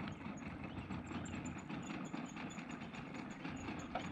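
Faint, steady hum of a motorboat's engine out on the lake, with no sudden events.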